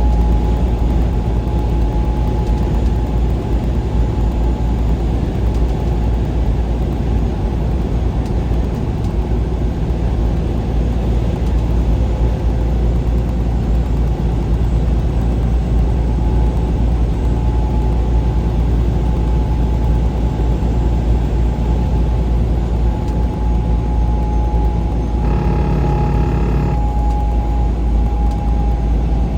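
Steady road and engine noise of a vehicle driving at highway speed, mostly a deep rumble with a faint steady whine. About 25 seconds in, a steady pitched tone sounds for about a second and a half.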